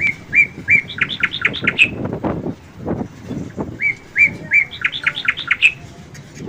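A songbird singing the same short phrase twice, about two seconds apart: a few even whistled notes, then a quick run of higher notes.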